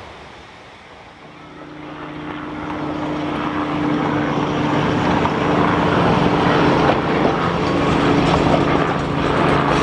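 Narrow-gauge train running, its steady droning hum growing louder over the first few seconds and then holding.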